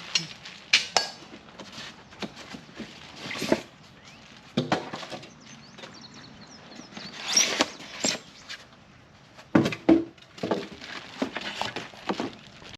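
Irregular knocks, clinks and rustles of a boxed portable miter saw stand being unpacked and handled, with its metal parts and packaging shifted about.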